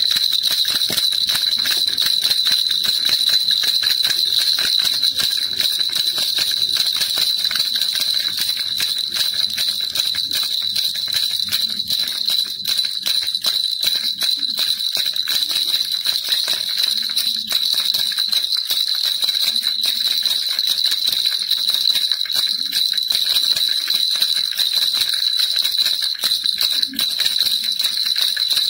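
Baby rattle shaken without pause: a dense, even jingling of small clicks over a steady high ringing note.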